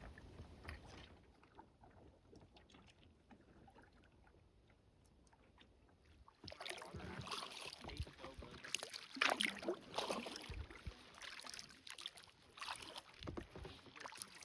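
Kayak paddle strokes on calm water, the blades dipping and water splashing and dripping off them, starting about six seconds in after a stretch of near silence.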